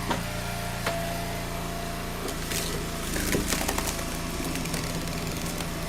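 Gas engine of a hydraulic log splitter running steadily while the wedge is driven into a knotty firewood round. About two seconds in the engine note changes under load, and a run of sharp cracks follows over the next second or so as the wood gives way.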